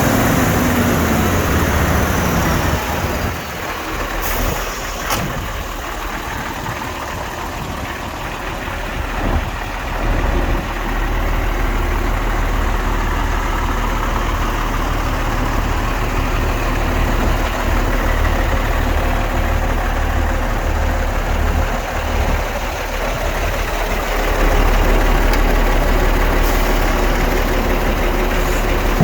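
Diesel engine of a MAN 26.362 6x4 tipper truck running steadily at or near idle.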